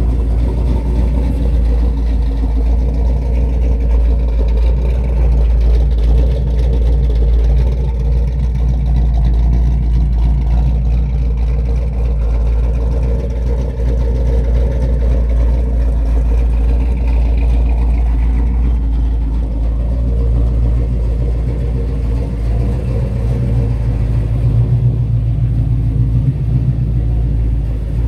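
1977 Pontiac Trans Am's built 400 cubic-inch (6.6-litre) V8 idling steadily.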